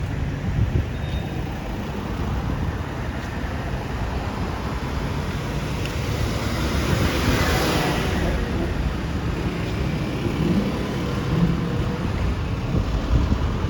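Road traffic: a steady low rumble, with a vehicle passing that swells loudest about seven to eight seconds in.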